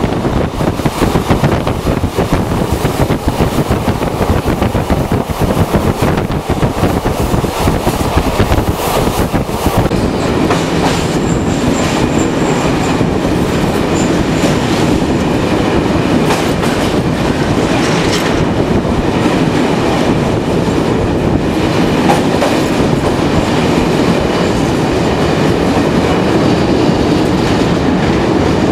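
Intercity passenger train running along the track, heard from inside the carriage at the window: the steady rumble and clickety-clack of the wheels on the rails. For the first ten seconds or so the noise is gustier, like wind buffeting the microphone, then it settles to an even run.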